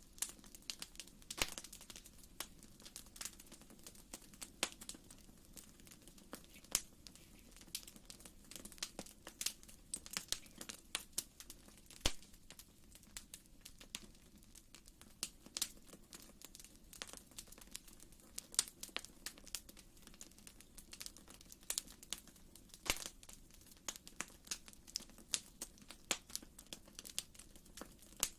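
Wood fire crackling in a fireplace: irregular snaps and pops, one sharper pop about halfway through, over a soft steady low rumble.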